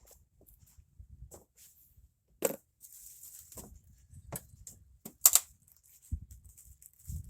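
Scattered knocks and clatter of hard objects being handled, with two sharper, louder knocks about two and a half and five seconds in.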